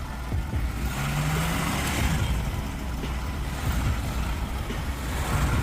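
Heavy truck engine running with a steady low rumble, a brief rise in pitch about a second in.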